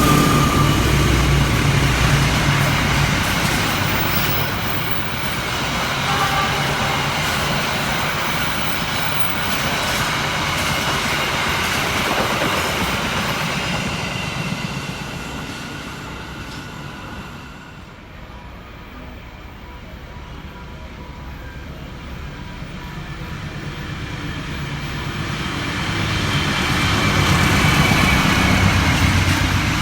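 A train running through the station, loud at first and fading away, then another train approaching and growing steadily louder in the last ten seconds or so.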